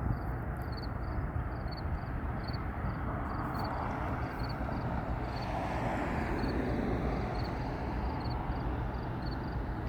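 Metro Transit Blue Line light rail train coming closer, a broad rumble of wheels on rail that swells about halfway through and then eases. Insects chirp steadily, about twice a second.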